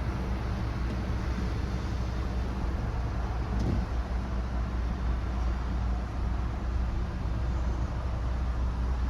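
The Ford F750's 6.8L V10 gas engine idling steadily with a low, even hum.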